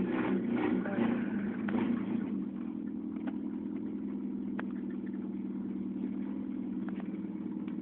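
Car engine idling steadily, with a few light clicks scattered through.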